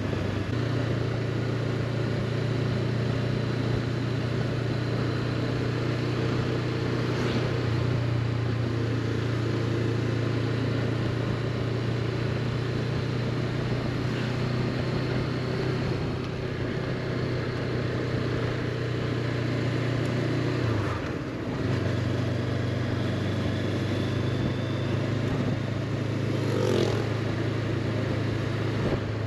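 Honda CB500X's parallel-twin engine running steadily while riding. About two-thirds of the way through, the engine note dips and bends briefly, as in a gear change or slowing, then settles again.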